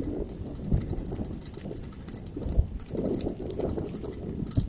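Wind buffeting the microphone and the rumble of a bicycle being ridden, with a few sharp knocks from bumps, the last near the end.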